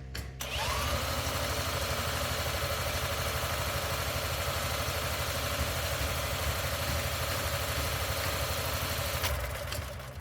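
Honda F501 tiller engine being cranked over without starting: the spinning picks up about half a second in, runs steadily for about nine seconds, then stops. It does not fire because no fuel is reaching the carburetor yet.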